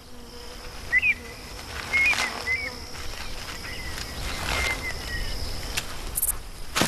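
Short, scattered bird chirps over a steady high insect drone, with a sharp click near the end.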